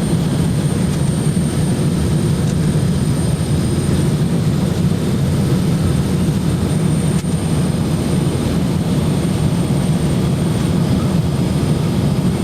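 Steady roar of a jet airliner's engines and airflow heard inside the passenger cabin during the descent to land, a deep even rumble with a faint high whine above it.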